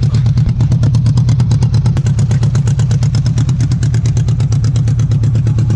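Motorcycle engine idling loudly and steadily, with an even, rapid pulse of about ten beats a second.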